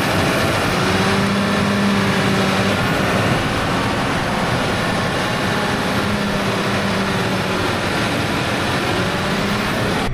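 Heavy machinery running steadily: a loud, dense mechanical noise with a low hum that fades in and out a few times.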